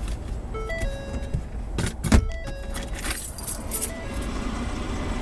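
Car collision heard from inside a car: a sharp impact about two seconds in, followed by a second or so of high rattling and clattering. Under it, a short electronic chime melody repeats about every second and a half.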